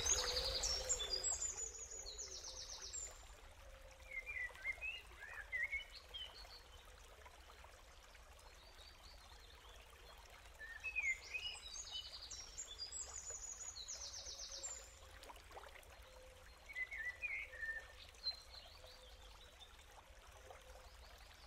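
Faint forest ambience: birds calling in scattered clusters of short, high chirps, with quiet stretches between.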